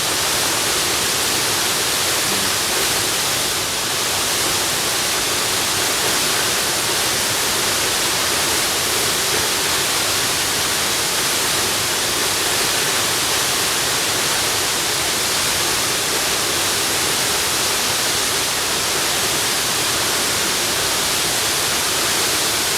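Waterfall: a steady, unbroken rush of falling water, a loud hiss weighted toward the high end with little low rumble.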